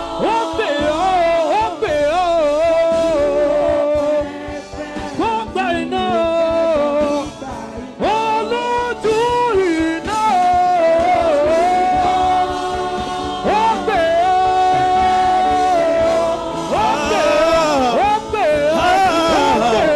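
Worship music with a voice singing long held notes that slide and bend in pitch.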